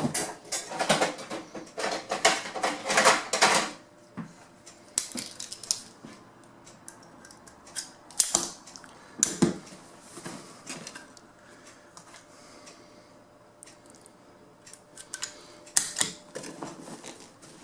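A quick run of sharp clicks and clacks for about three and a half seconds, then single clicks and knocks every second or few, with a short cluster near the end: hand work with tools on a motorcycle seat's cover and base.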